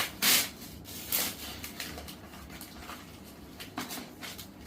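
Gift-wrapping paper being torn open and rustled by hand: the loudest tear comes just after the start, followed by several shorter crackles and rustles.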